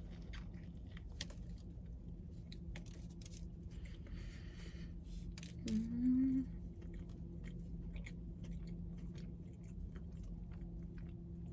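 Close-miked biting and chewing of a honey butter chicken biscuit, with many small wet mouth clicks and crunches. About six seconds in there is a short closed-mouth hummed "mmm" that rises slightly in pitch. A steady low hum runs underneath.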